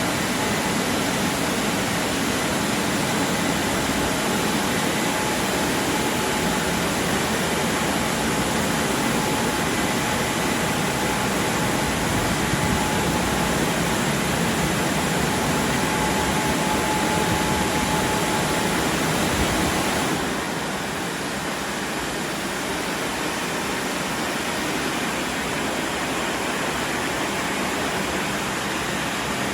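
WashTec SoftCare Pro Classic rollover car wash running, a loud steady rushing noise. About twenty seconds in, the sound changes and drops slightly.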